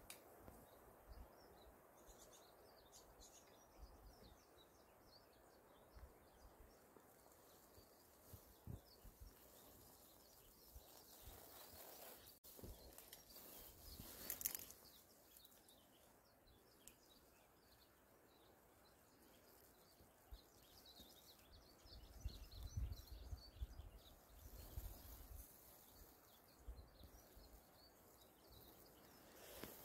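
Near-quiet rural outdoor ambience with faint, scattered chirps of small birds and a few low rumbles.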